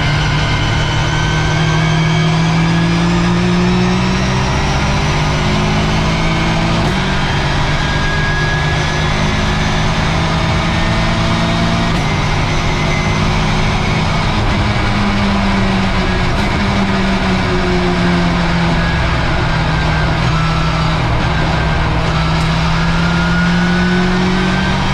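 Race car engine heard from inside the cockpit, driven hard through the gears: the revs climb, break sharply at gear changes about 7 and 12 seconds in, then fall and build again.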